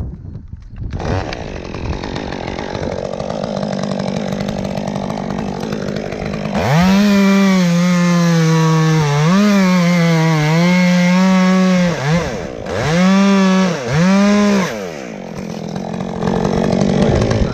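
Chainsaw running at a low speed, then revved to full throttle for about five seconds, the pitch dipping briefly a few times as it is loaded in the cut. It drops off, revs up twice more in short bursts, then settles back to a lower speed.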